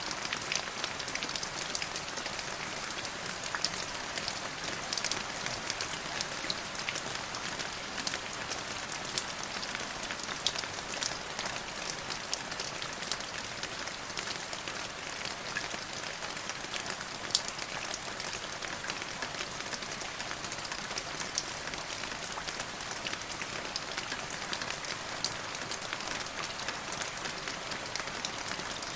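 Steady rain falling, a constant hiss scattered with the sharp ticks of individual drops.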